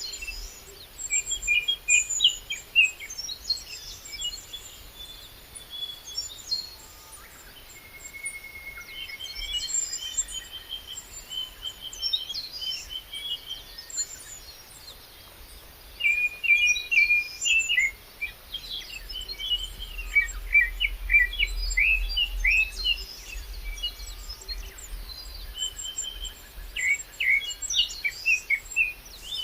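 Several wild birds singing and chirping, with dense bursts of quick chirps and trills, the busiest stretch about two-thirds of the way through.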